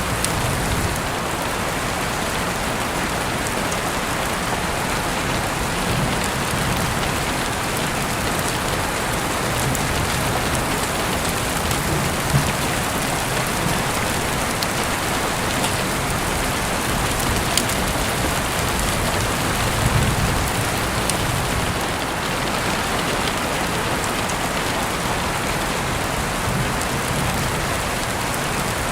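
Heavy rain falling steadily, heard through an open window, with a few brief low swells in the rumble.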